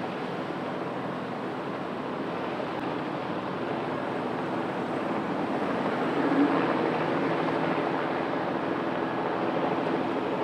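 Light turbine helicopter flying overhead: a steady rushing drone with faint engine tones, swelling a little just after the middle.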